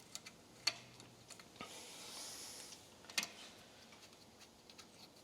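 Faint clicks and taps of a small screwdriver and metal throttle parts being handled, with two sharper clicks, one under a second in and one about three seconds in, and a short hiss near the middle.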